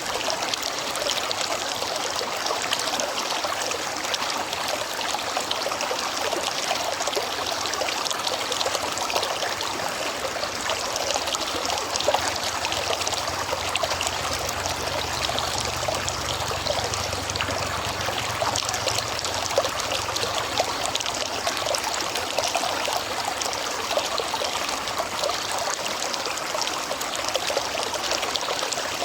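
River water flowing steadily, an even rushing and trickling sound.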